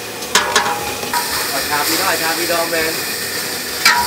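Food frying in hot oil: a steady sizzle that starts suddenly about a second in, with a utensil knock just before it and another near the end.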